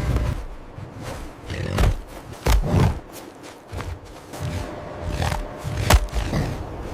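A large animal roaring and grunting, with several sharp thuds; the loudest comes near the end.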